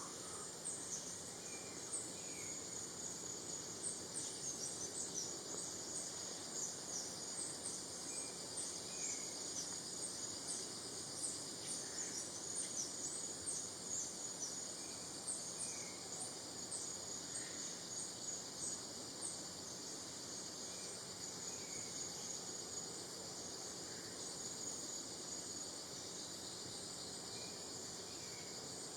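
Natural outdoor ambience: a steady high insect drone with many short, high chirps over it, and now and then a brief falling call like a bird's.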